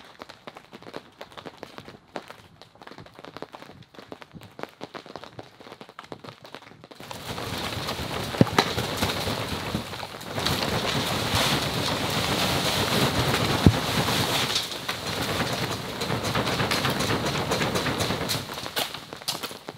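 Snow shaken loose and sliding down the plastic sheeting of a cattle panel greenhouse, heard from inside. Scattered faint ticks at first, then about seven seconds in a loud rain-like rushing patter that comes in three waves, with a few sharp knocks.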